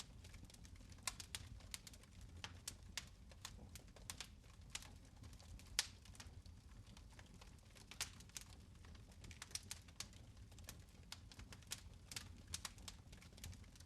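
Fireplace fire crackling softly: irregular small pops and snaps, a few a second, over a low steady rumble.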